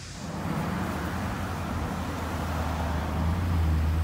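A motor vehicle's engine running close by: a low hum over road noise that starts suddenly and grows louder.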